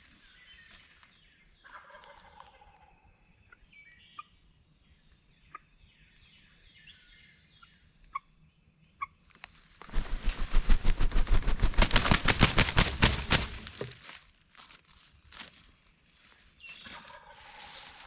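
Wild turkey gobbling several times, faint and at a distance. In the middle comes a much louder rush of rapid pulsing noise, about five pulses a second, lasting some four seconds.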